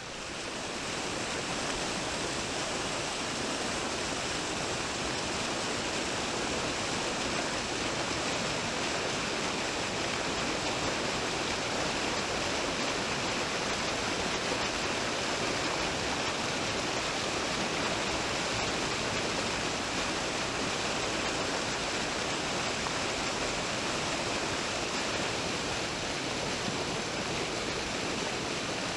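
Flowing water of a mountain stream, a steady rushing that rises within the first second and then holds even.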